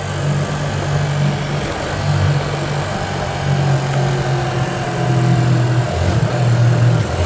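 Hyosung Aquila 125 motorcycle engine running while riding, its note shifting up and down several times as the throttle changes, over a steady rushing noise.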